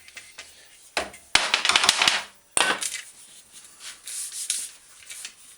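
Dented steel bicycle fender being worked out against wooden blocks, heard as bursts of quick knocks and scraping of wood on metal. The loudest run of rapid knocks comes about a second in.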